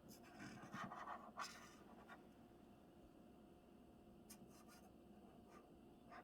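Dry-erase marker writing on a small toy dry-erase board, faint: a few scratchy strokes in the first two seconds, then only light ticks.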